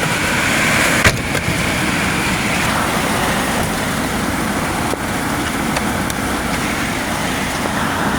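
Heavy rain pouring down steadily, a loud even hiss, with a couple of brief sharp ticks.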